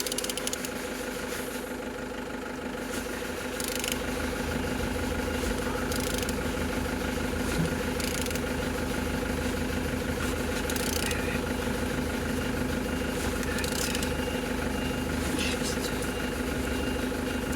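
Steady mechanical hum, with short rasping strokes every couple of seconds as the BMW M57D30 diesel engine is turned over.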